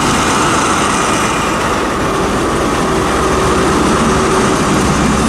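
Diesel engine of a Class 43 HST power car running steadily at close range, a deep rumble with a steady whine over it.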